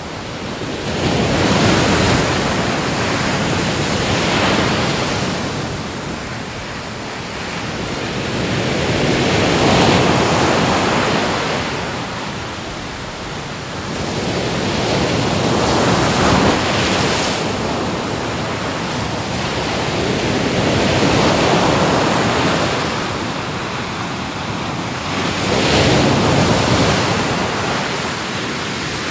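Ocean waves breaking on a shore, the surf swelling in and washing back about every five or six seconds.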